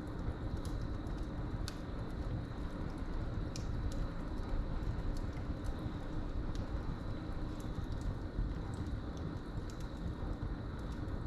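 Wood fire burning in a fireplace: a steady low rumble with scattered sharp crackles and pops. Crickets chirp steadily in the background as a thin, high, continuous note.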